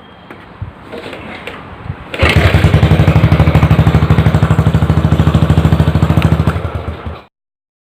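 Modenas Kriss 110 single-cylinder four-stroke engine running through an aftermarket Apido small-bore exhaust, with a loud, fast, even put-put beat that comes in about two seconds in. The sound cuts off suddenly near the end.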